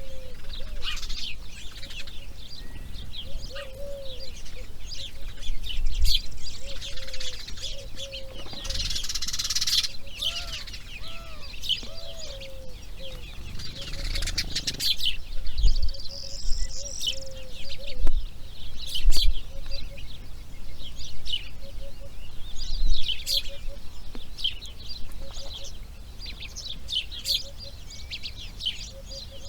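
Several birds chirping and calling in quick short notes, with a steady run of lower repeated notes underneath. Two brief rushing sounds break in, about nine and fifteen seconds in.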